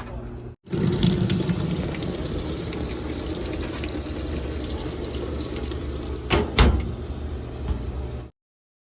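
Washing machine filling, water rushing steadily into the drum over a low hum, with two sharp knocks about six and a half seconds in. The sound starts and stops abruptly.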